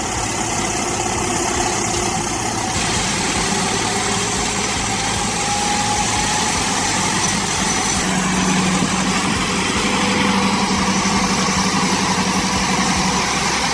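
Heavy truck engine running steadily, with a slow rise in pitch around the middle and a steady low hum joining about eight seconds in.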